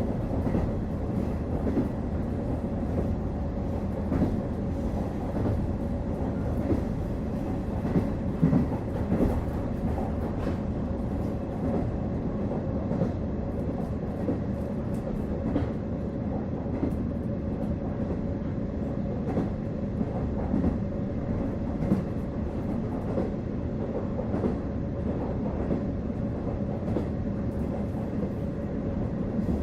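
KiHa 48 diesel railcar running at speed, heard from inside the car: a steady engine and running drone with a constant hum, and irregular wheel clicks over rail joints.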